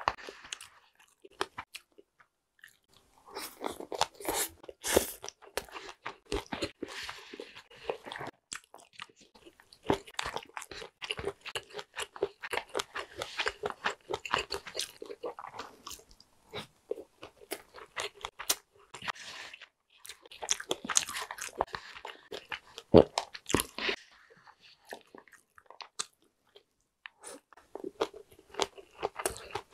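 Close-miked chewing with crisp crunching, in dense runs of quick small crackles broken by short quiet pauses, and one sharper click about 23 seconds in.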